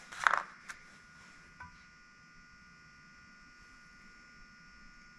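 A short scrape and two or three small clicks in the first second or two, then a faint steady electrical hum.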